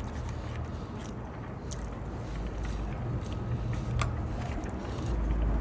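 A person eating: chewing and biting with small scattered clicks. A steady low rumble runs underneath and grows louder near the end.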